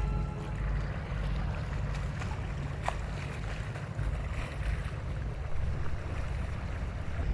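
Wind buffeting the microphone at the seashore, with the wash of waves underneath.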